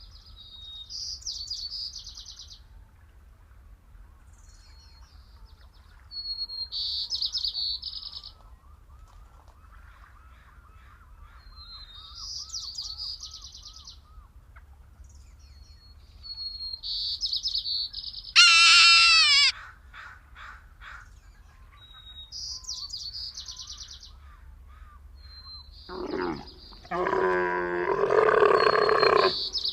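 A small bird singing the same short phrase about every five seconds: a brief high note followed by a buzzy trill. A loud squawk that falls in pitch cuts in once about two-thirds of the way through, and a loud, deeper, harsh animal call starts near the end.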